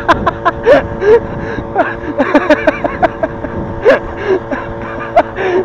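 Short yelps, gasps and laughing cries from several people, over a steady motor hum.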